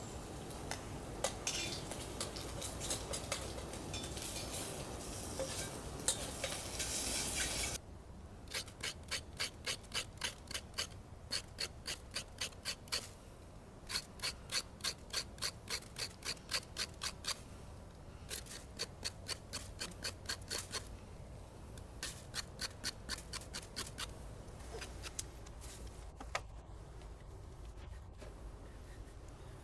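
A dense rustling, scraping noise for the first few seconds. It changes abruptly to runs of rhythmic scraping strokes, about four a second, in bursts of a few seconds separated by short pauses.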